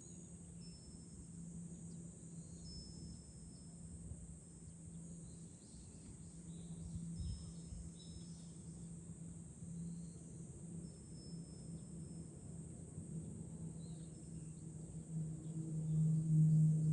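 Cicadas droning in a steady high-pitched chorus, with brief high ringing tones and gusts of wind rumbling on the microphone. A low steady hum grows louder near the end.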